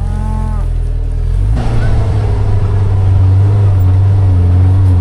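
A vehicle's engine running steadily, then speeding up and getting louder about a second and a half in as it pulls ahead at a low, even drone.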